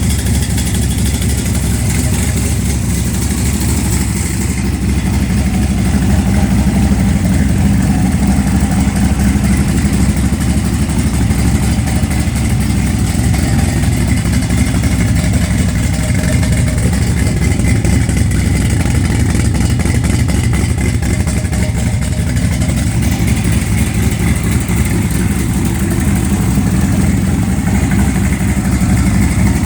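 Hot rod truck's engine running steadily at idle after being cranked up, loud and even throughout, with slight swells in pitch a few times.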